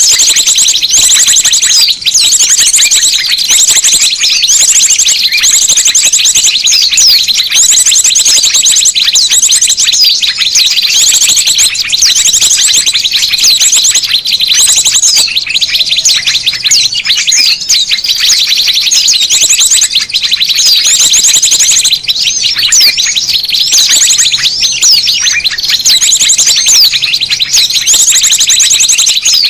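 Dense, unbroken chatter of many small birds chirping and trilling together, with fast high trills coming in repeated bursts: a bird-lure (pikat) recording for calling in small birds.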